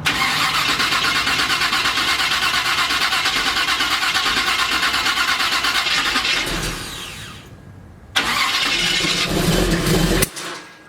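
Chevy C10 engine being turned over by its starter in two long cranks without catching. The first winds down after about six seconds. The second ends near the end in a sharp pop that is a backfire out the carburetor, and then stops suddenly.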